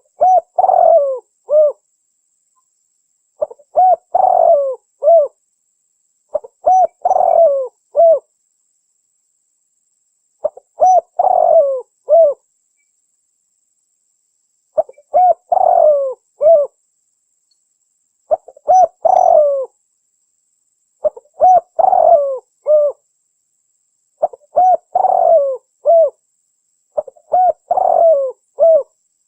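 Spotted dove calling: a repeated phrase of several soft coos, heard nine times at intervals of about three to four seconds, with silence between phrases.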